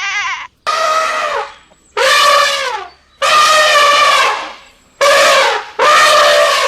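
A series of loud, drawn-out animal calls, about five in a row with short pauses between, each dropping in pitch as it ends.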